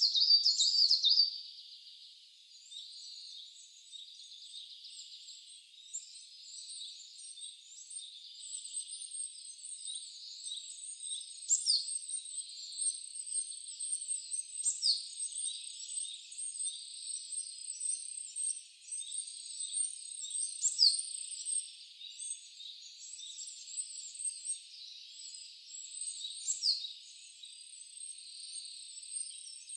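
Wild songbirds calling: a quick run of bright notes in the first second, then a sharp downward-sliding call every few seconds among many small high chirps, over a steady high hiss.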